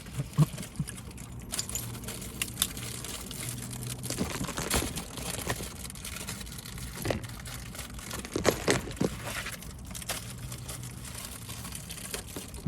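Close-up eating sounds: crinkling of a plastic wrapper and scattered clicks and crackles from handling and chewing a honey bun, over a low steady hum.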